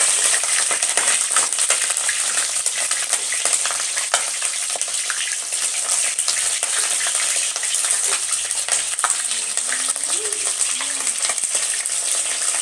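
Pieces of chicken deep frying in hot oil in a wok: a steady sizzle full of small crackles.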